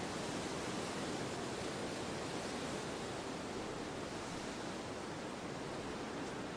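Steady wind: an even rushing noise without gusts, breaks or distinct events.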